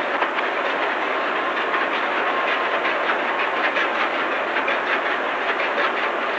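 Large two-stroke crosshead marine diesel engine running steadily while it comes up to full speed after starting: a constant noise with quick, faint ticks through it.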